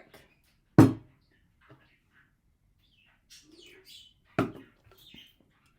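Two sharp knocks about three and a half seconds apart, the loudest sounds, with faint bird chirps in between.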